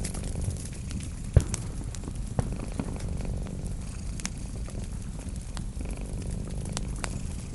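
A cat purring in a steady low rumble, with a wood fire crackling over it in scattered sharp snaps; one louder pop about a second and a half in.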